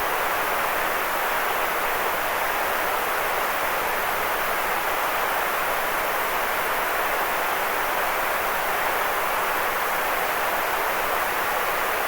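Steady, unchanging white noise: an even hiss strongest in the middle range, with little low rumble.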